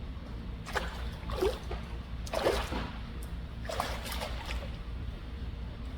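Seawater splashing and lapping in four or five short bursts over a steady low rumble.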